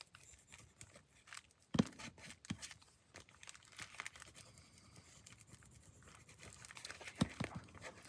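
Tracing paper crinkling and rustling as it is handled and pressed down by hand, a run of small crackles with two sharper knocks, one near the start and one near the end.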